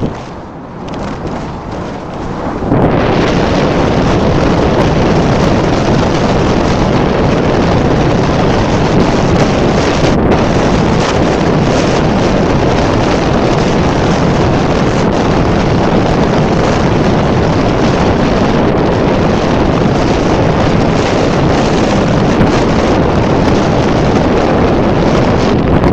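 Heavy wind noise on the microphone from riding a fast electric bike into strong crosswinds. It is quieter for the first two or three seconds, then loud and steady.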